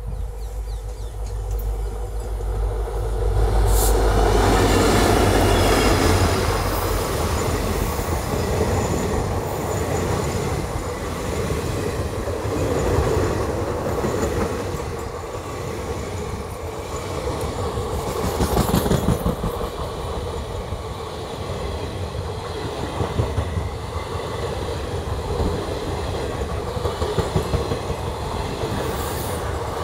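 Diesel-hauled passenger express passing close by. The locomotive's engine and wheels are loudest about four seconds in, then the coaches keep rolling past with a steady rumble and repeated clatters of wheels over the rail joints.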